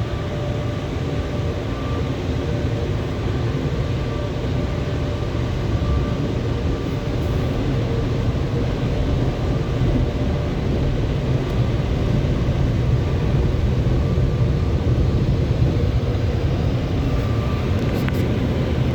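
Car wash blower dryers running, a steady loud rush of air with a low rumble and faint steady tones, heard from inside the car as it sits under them. The noise grows slightly louder over the stretch.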